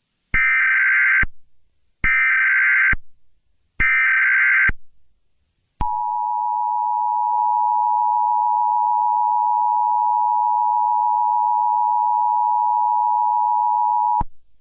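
Emergency Alert System activation tones: three short buzzing bursts of SAME digital header data, each just under a second long with short gaps between. Then the two-tone EAS attention signal is held steady for about eight seconds and cuts off suddenly, marking the start of a new alert.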